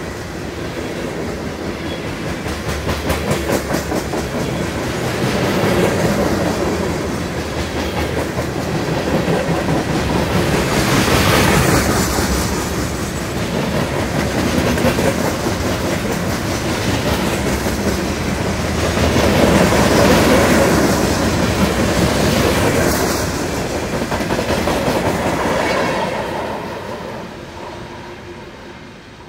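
Coal hopper cars of a freight train rolling past close by, the wheels clacking over the rails over a steady rumble that swells and eases. Over the last few seconds the sound fades as the end of the train passes and moves away.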